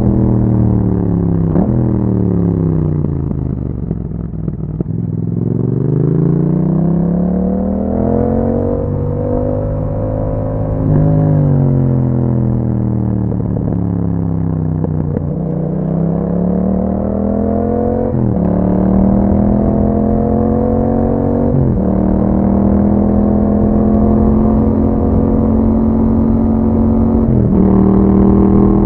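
A 2021 Yamaha MT-07's 689 cc parallel-twin engine, heard through an Akrapovic exhaust while riding. The engine note falls off and climbs again several times, with sudden pitch steps at the gear changes. It settles into a steadier pull in the second half.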